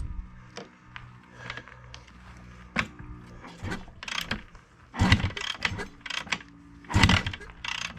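An old KTM two-stroke dirt bike being kick-started with the choke on: several kicks, the two hardest about five and seven seconds in, each a short mechanical clatter of the kick-start lever and its ratcheting gears turning the engine over. The engine has not caught yet.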